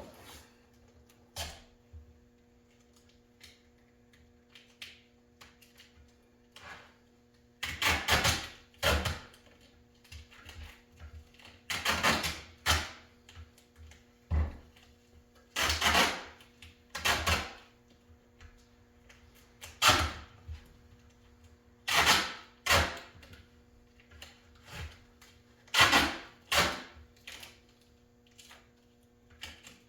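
Irregular knocks, clunks and short clattering scrapes of parts and tools being handled at a workbench, with a faint steady hum underneath.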